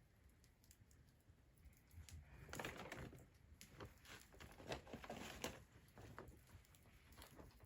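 Faint crackling and rustling of fire kindling: scattered sharp crackles, thickest from about two and a half to six seconds in.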